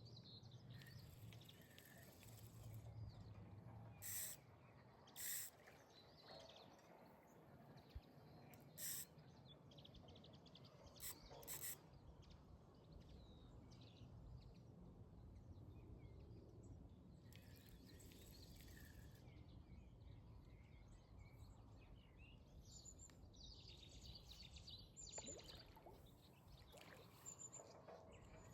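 Near silence: faint outdoor background with birds chirping now and then, and a few short, sharp high-pitched sounds in the first half.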